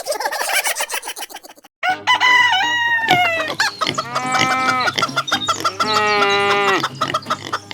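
A rooster crowing several times, with clucking between the crows. Before the first crow there is about a second and a half of rapid clicking, then a brief pause.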